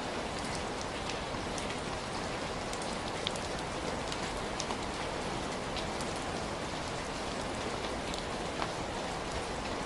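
Heavy rain falling steadily, with scattered sharper drop impacts ticking on a surface.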